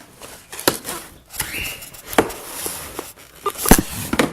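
Cardboard box being opened with a razor blade: the blade slicing and scraping through packing tape, with several sharp knocks and taps of the cardboard, the loudest about three and three-quarter seconds in.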